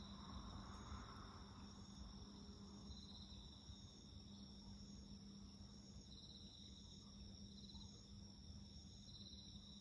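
Faint chorus of night insects singing: a steady high trill, with another insect chirping in short repeated pulses and a louder swelling chirp about every three seconds. A faint steady low hum runs underneath.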